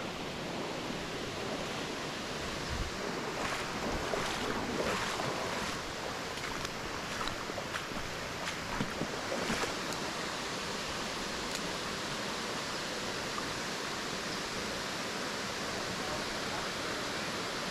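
Small creek waterfall rushing steadily, with a few faint knocks in the middle.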